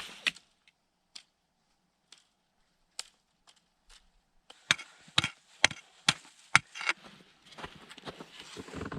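Wood being chopped: a few scattered knocks, then a run of about five sharp strikes roughly half a second apart about halfway through, followed by fainter scraping and handling noise.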